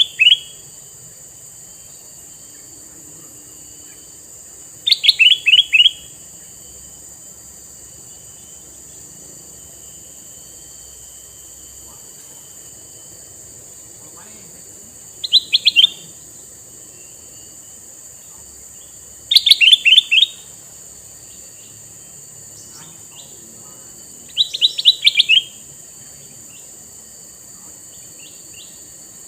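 Male ruby-throated bulbul (kutilang mas) calling in short bursts of quick descending notes. Each burst lasts about a second, with about five bursts spread a few seconds apart.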